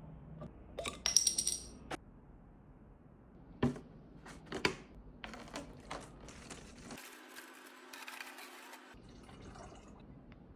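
Hard objects handled and set down: a quick run of ringing clinks about a second in, like glass or metal touching, then two knocks and lighter handling sounds.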